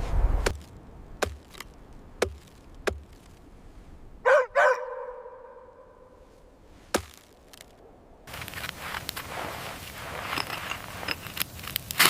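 Sharp chopping strikes about a second apart, then two short pitched yelping calls about four seconds in and one more strike near seven seconds. From about eight seconds in, a fire crackles steadily.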